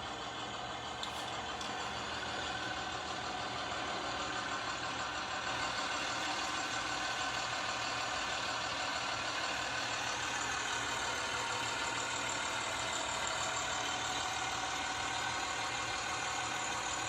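Cummins ISB 5.9-litre inline-six turbo diesel idling steadily.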